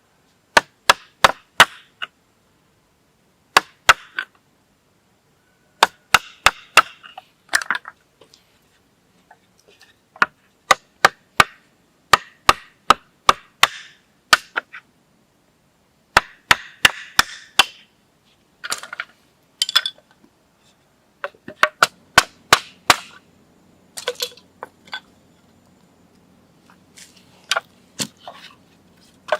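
Chopping wood: sharp blows in quick bursts of three to six strokes, repeated with short pauses between bursts.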